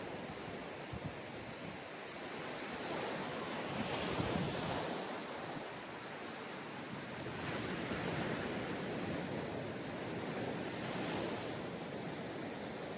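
Ocean waves breaking and washing up a sandy beach, a steady rush with swells about every three to four seconds, the strongest about four seconds in.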